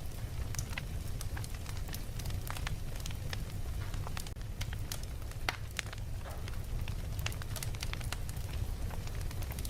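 Wood fire crackling: frequent sharp irregular pops and snaps over a steady low rumble of the flames.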